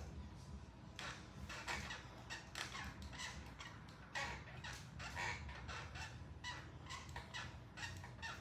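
Stationary exercise bike squeaking and creaking in rhythm with the pedalling, two to three squeaks a second, over a low steady hum.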